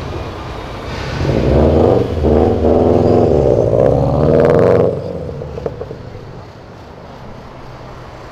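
Subaru WRX STI's turbocharged flat-four revving hard as the car pulls out, the revs climbing to a peak about five seconds in. Then the driver lifts off and the engine note drops away quieter as the car drives off.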